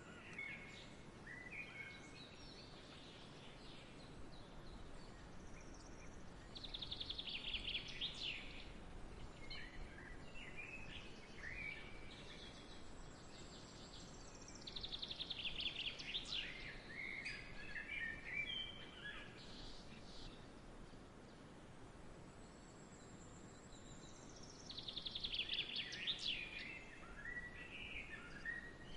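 Songbirds singing outdoors: a song phrase of a rapid high trill running into lower chirping notes comes three times, roughly every nine seconds, with scattered single chirps between, over a faint steady outdoor hiss.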